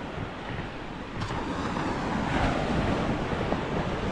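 Wind blowing on the microphone, a steady rushing noise with low buffeting, a little louder from about a second in.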